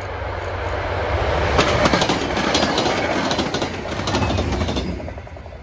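CTrail passenger train passing close by: the diesel locomotive's engine hum under rolling noise, with the wheels clicking over rail joints, loudest about two seconds in and falling away sharply near the end as the train clears.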